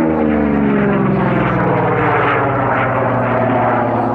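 Vought F4U Corsair's Pratt & Whitney R-2800 radial piston engine passing by at display speed, its pitch falling as it goes past and then holding steady.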